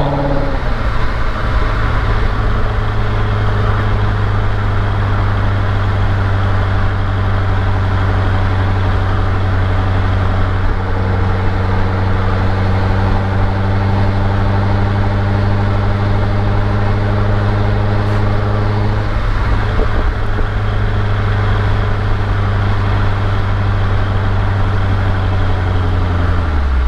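Chevrolet Corvette C6 V8 engine running steadily at low revs, a deep steady drone. The pitch steps down right as it begins and falls again near the end as the revs drop.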